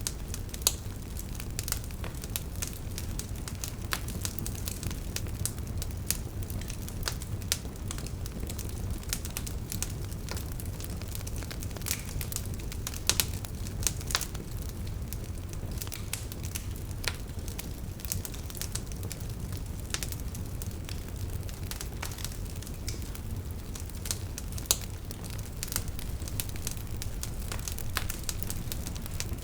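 Wood fire burning: logs crackling with frequent, irregular sharp pops over a steady low rumble, a few pops standing out louder.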